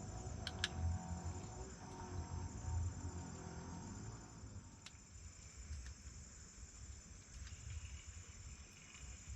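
Night insect chorus, crickets trilling steadily high up, with a low rumble under it that fades after the first few seconds and a few faint clicks.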